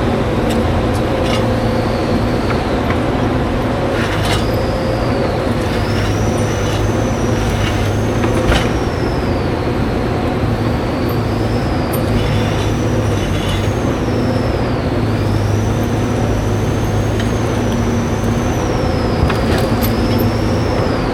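Timberjack 608 tracked harvester's diesel engine running steadily, heard from inside the cab, with a high whine that rises and falls over and over and a few sharp knocks.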